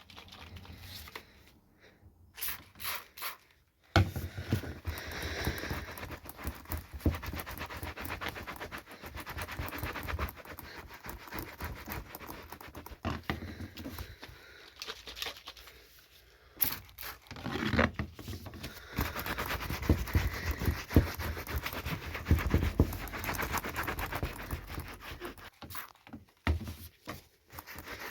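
Trigger spray bottle squirting watered-down brown paint onto boots, in many quick repeated puffs.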